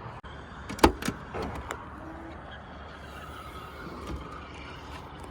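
A car body panel is slammed shut about a second in, then a few lighter knocks and clatter follow. Low, steady background rumble underneath.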